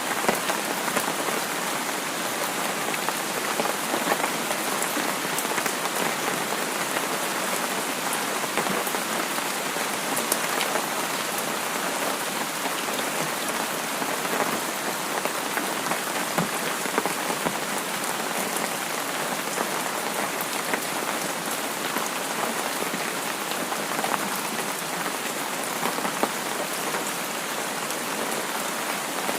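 Steady rain falling on a surface, with a continuous hiss and scattered drop patter.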